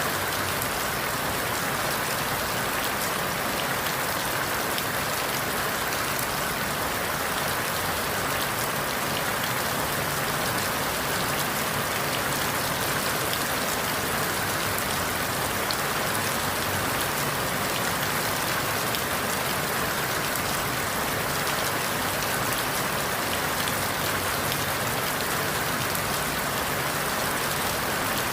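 Steady rain falling through forest leaves, an even patter with no thunder or sudden drops.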